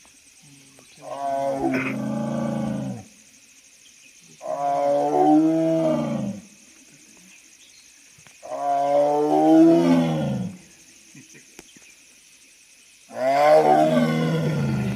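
Tiger roaring: four long roars of about two seconds each, a couple of seconds apart, each dropping in pitch.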